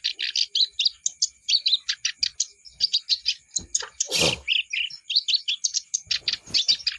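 Kerak basi (reed warbler) singing steadily: a fast, unbroken stream of short, harsh chattering notes. A brief rushing noise cuts in about four seconds in.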